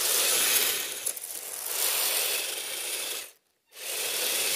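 Radio-controlled vehicle driving on icy snow: a continuous scratchy, ratcheting clatter of drivetrain and tracks or tyres scrabbling for grip, with little traction. It breaks off completely for about half a second past the three-second mark, then carries on.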